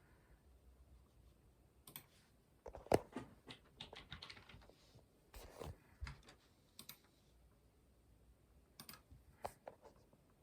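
Keys of a computer keyboard being typed on in short, uneven bursts of clicks, with pauses between them.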